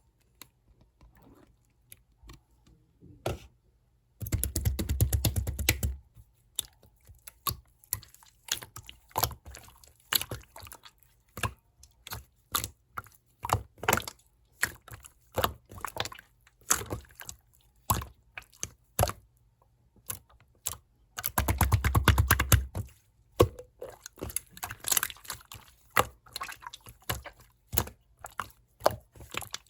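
Clear slime being worked by hand, giving a run of sharp wet clicks and pops. Twice, about four seconds in and again about 21 seconds in, it breaks into a dense crackle of rapid pops lasting a second or two.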